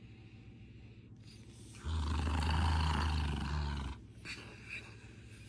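A cat growling loudly once for about two seconds, starting about two seconds in, between quiet moments.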